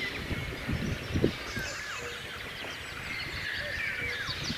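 Many songbirds singing together in a dense chorus of overlapping chirps, whistles and trills, with a brief low sound about a second in.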